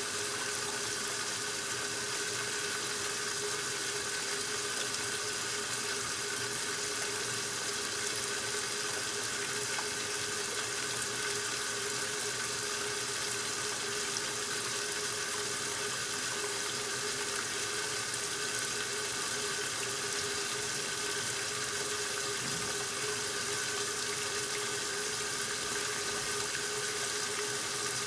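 1969 Westinghouse LAJ 535A3 washing machine running its regular cycle, with water running steadily into the tub alongside a constant hum.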